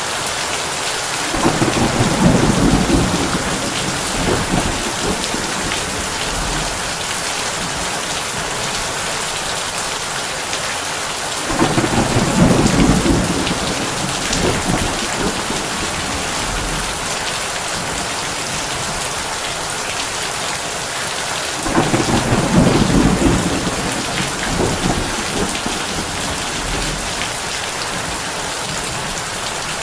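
Heavy rain falling steadily on a tin roof, with thunder rumbling three times, about ten seconds apart.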